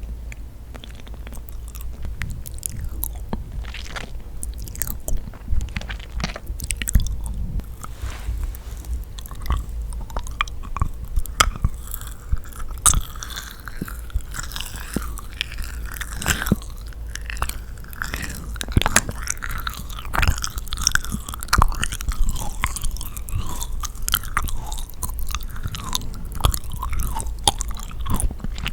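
Close-miked chewing and biting of yakgwa, a Korean honey-soaked fried cookie: sticky, wet mouth sounds with many small clicks and smacks.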